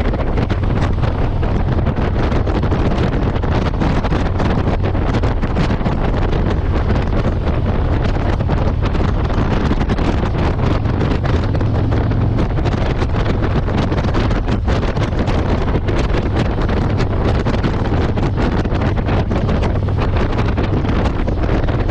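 Wind buffeting the microphone on a moving motorcycle, with the engine's steady low drone underneath.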